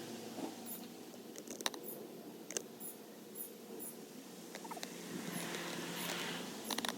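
Quiet outdoor ambience: a faint, very high chirp repeating about twice a second, with a few sharp ticks, one near the end.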